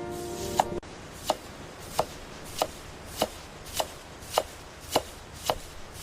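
Knife chopping vegetables on a cutting board, in evenly spaced single strokes about every 0.6 s, nine in all.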